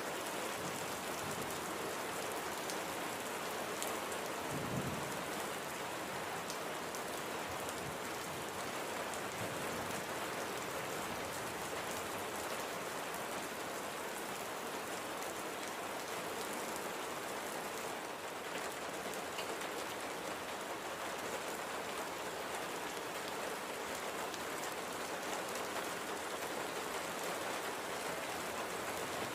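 Steady, gentle light rain falling as an even, unbroken patter, with a brief low rumble about five seconds in.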